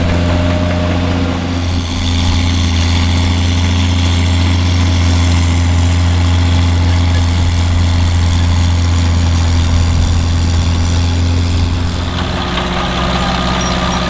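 Heavy farm machine's diesel engine running steadily with a strong low drone. About twelve seconds in the tone changes as the low drone drops away.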